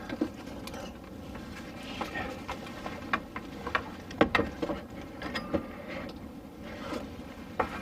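Hand work on a diesel heater install: scattered clicks, knocks and rattles as parts are handled and fitted, over a low steady background.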